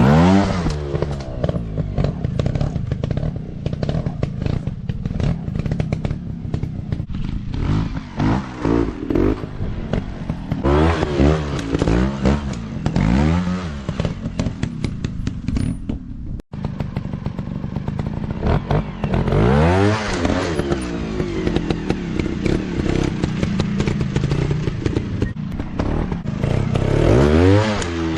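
Dirt bike engines revving up and easing off again and again, each throttle blip a quick rising and falling pitch, with clattering from the bikes over rough ground.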